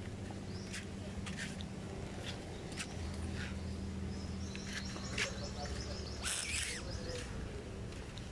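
Small birds chirping in short, repeated high calls, with one longer warbling call about two thirds of the way in, over a steady low hum.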